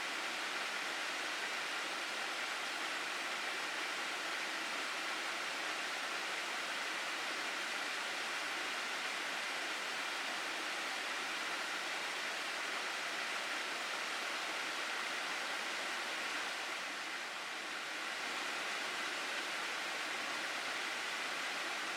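Water of a mountain gorge stream rushing steadily, dipping slightly in loudness for a moment about three-quarters of the way through.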